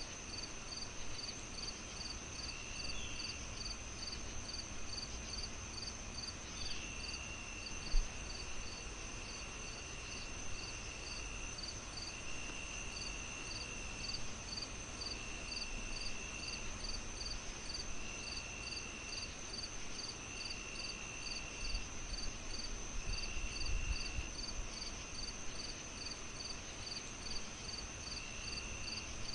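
Crickets chirping in an even rhythm of about two to three chirps a second over a steady high insect drone, with a second insect trilling in bursts of about a second. Beneath them runs a low fireplace crackle with an occasional louder pop.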